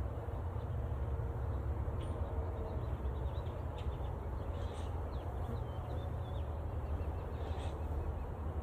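Freshly installed honey bee colony buzzing in a steady hum. Small birds chirp faintly a few times over it.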